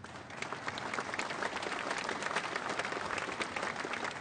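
Audience applauding, many hands clapping at once; the applause swells up within the first second and carries on steadily.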